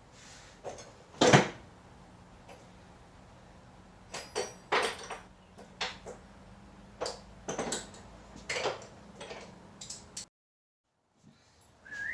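A series of irregular knocks and clanks from hand work on the pickup's engine-removal job, the loudest about a second in. A faint steady hum runs underneath until the sound cuts out near the end.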